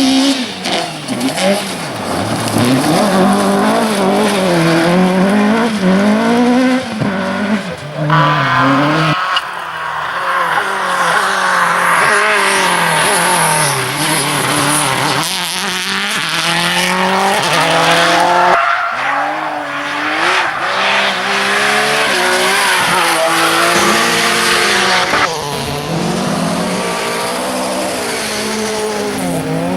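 Rally car engines at full throttle, rising in pitch and dropping sharply at each gear change, heard in a run of short clips cut one after another.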